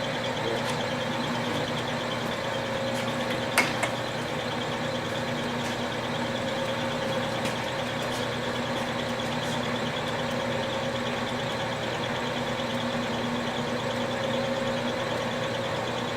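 Millport 13x40 manual lathe running, its motor and gears giving a steady hum with a high whine over it. A single sharp click comes about three and a half seconds in.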